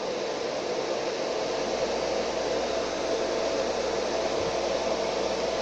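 Two industrial blower fans in a homemade Lada Niva heater fan housing running steadily at a raised setting of their PWM speed controller. It is an even rush of air with a faint hum.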